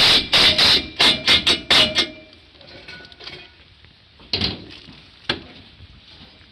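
Hammering during roof repair work: a quick run of about eight sharp strikes in the first two seconds, then two single knocks a few seconds later.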